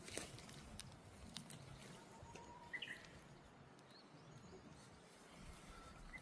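Faint rainy-day outdoor ambience: a few short bird chirps, one most clearly about three seconds in, over scattered faint taps of raindrops.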